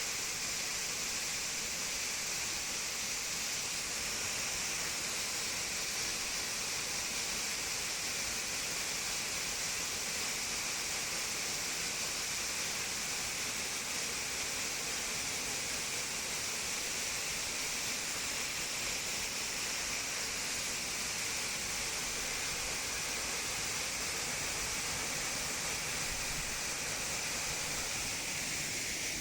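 Waterfall running full with monsoon rain: a steady, even rush of falling water with a bright hiss and no breaks.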